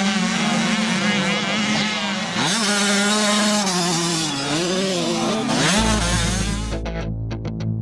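Motocross bike engine revving, its pitch rising and falling with the throttle, with a sharp drop and climb about a third of the way in. About three-quarters of the way through it cuts to rock music with bass, drums and distorted guitar.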